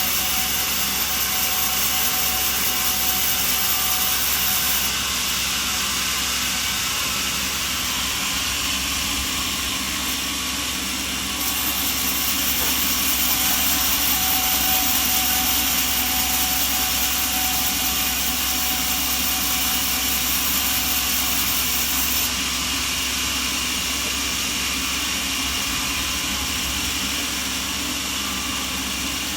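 Sawmill machinery running with a loud, steady mechanical noise, its character shifting slightly a few times.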